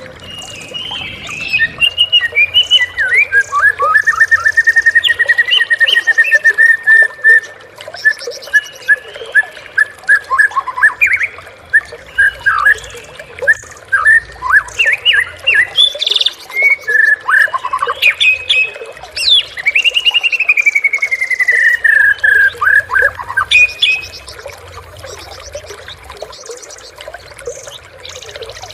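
White-rumped shama (murai batu) singing a loud, varied song of rapid repeated notes and whistles, with a long falling trill before it stops near the end.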